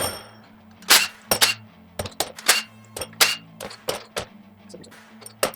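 Hard metal engine parts and hand tools clinking and clanking, a quick series of sharp knocks, several ringing briefly like steel pieces set down or knocked together during a small-block V8 teardown. Faint background music underneath.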